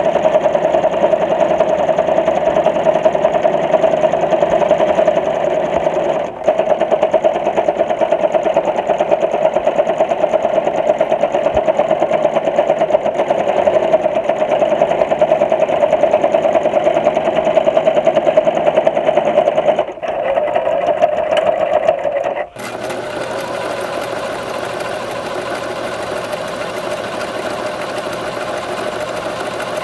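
Electric sewing machine running steadily at speed, the needle stitching in a fast, even rattle, with a brief break about six seconds in. About two-thirds of the way through, the sound cuts abruptly to a quieter, smoother running with a steady low hum.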